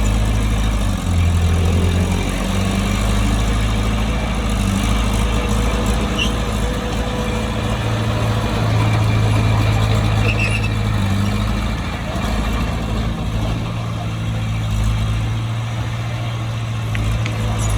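Heavy diesel engine of earthmoving machinery running continuously, its low note rising and falling a little as the machine works.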